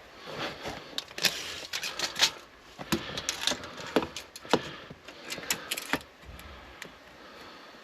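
Irregular sharp clicks and light knocks, about a dozen over the first six seconds, then quieter: small hard objects being handled.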